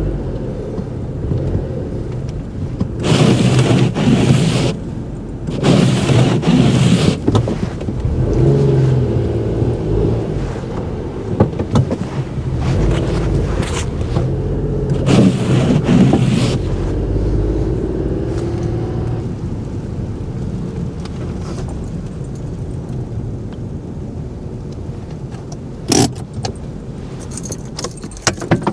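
A truck engine idling steadily, with several bursts of scraping and rattling handling noise and a few sharp clicks over it.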